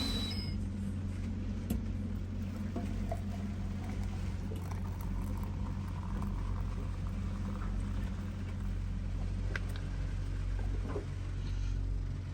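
Steady low rumble of gale-force wind around the boat, with a light patter of rain and a few faint ticks.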